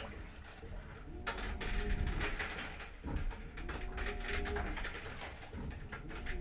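Washing machine running its wash cycle: a churning, swishing noise with a low motor tone that repeats about every two seconds as the drum or agitator turns one way and then the other.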